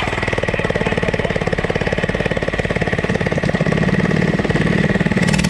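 Mini-bike's small single-cylinder Predator engine running hard and close by, a steady rapid pulsing that grows a little louder toward the end.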